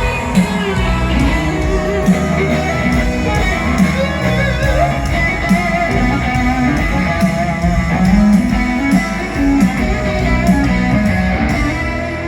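Live country-rock band playing an instrumental break: an electric guitar lead with bending notes over bass and a steady drum beat.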